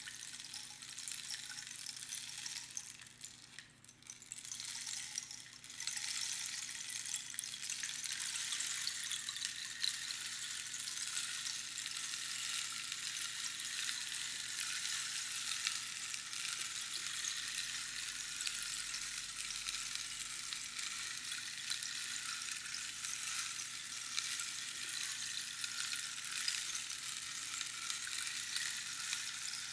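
Rainstick: small pebbles trickling down the hollow tube in a dense, rain-like patter. The flow thins and nearly dies away about four seconds in, as the pebbles run out, then starts again a couple of seconds later and runs on steadily.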